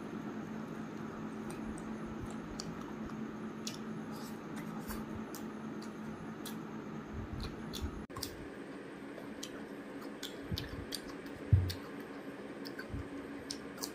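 Close eating sounds of a man eating rice and curry by hand: chewing with small wet mouth clicks and smacks scattered throughout, over a faint steady hum that stops about halfway. A single low thump near the end is the loudest sound.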